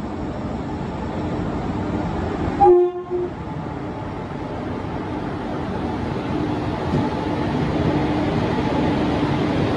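Train running along the platform with a steady rumble that slowly grows louder, and a short horn blast about three seconds in.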